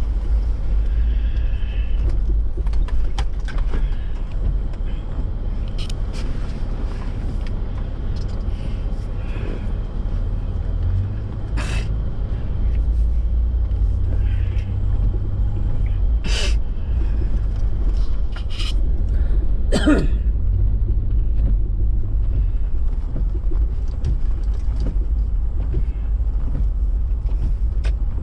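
Steady low rumble of a vehicle driving on snow-covered roads, heard from inside the cab. A few sharp clicks or knocks are scattered through it.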